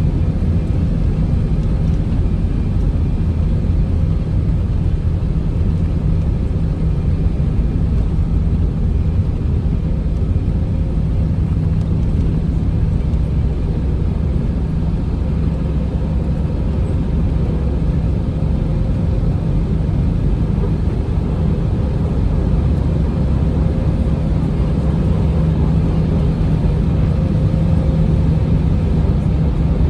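Airbus A319's jet engines running at takeoff power: a loud, steady low drone with a hum, which strengthens slightly near the end.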